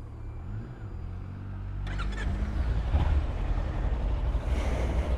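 Kawasaki Ninja 300's parallel-twin engine running at low revs, then pulling away, the engine and road noise growing steadily louder from about two seconds in.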